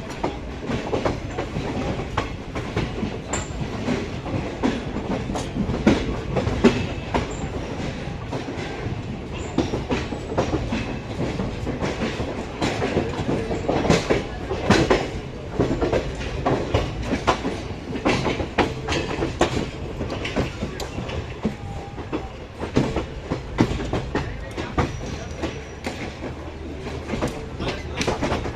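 Begampura Express passenger train running along the track: a steady rumble of the coaches with frequent sharp, irregular clacks of the wheels over rail joints.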